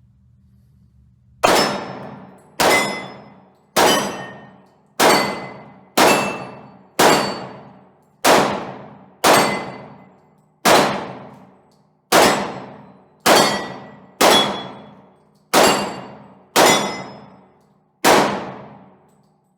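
Glock 22 .40 S&W pistol with its factory barrel fired fifteen times, about one shot a second, each shot followed by a ringing clang as bullets hit steel targets at about 18 yards.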